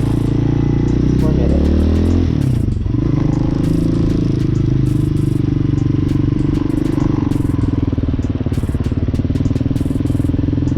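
Hawk 250 single-cylinder four-stroke motorcycle engine running at low speed. Its note shifts during the first three seconds, then holds steady.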